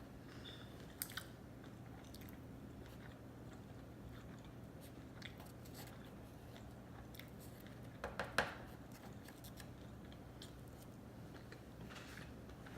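A person chewing sushi close to the microphone: faint scattered mouth clicks, with a brief cluster of three louder smacks about two-thirds of the way through.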